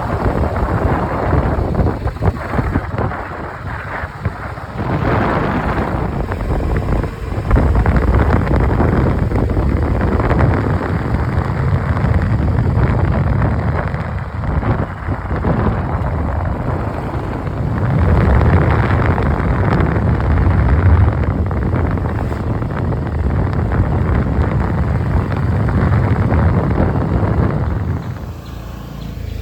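Wind buffeting the microphone during a motorcycle ride, a loud surging rumble over the bike's running and road noise. It drops off noticeably near the end.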